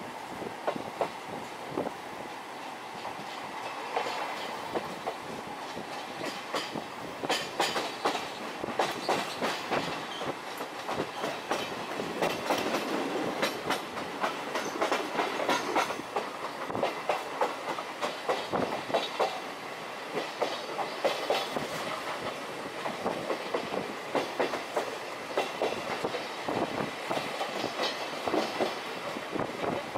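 Passenger coach of a steam-hauled train running along the line, its wheels clicking over rail joints, with the carriage rattling.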